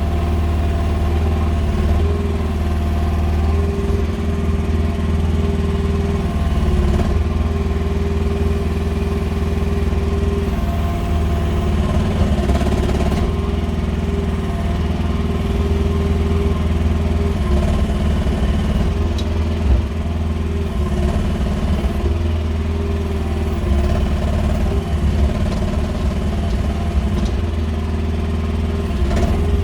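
QH13R mini excavator engine running steadily throughout, its note shifting slightly now and then. A single sharp knock comes about two-thirds of the way through.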